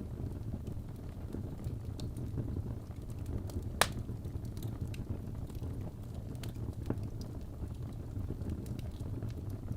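Wood fire burning in a fireplace: a steady low rumble of flames with scattered crackles, and one sharp, loud pop about four seconds in.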